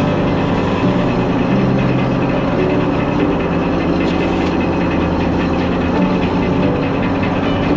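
An engine running steadily at a constant pace, with a low, even hum.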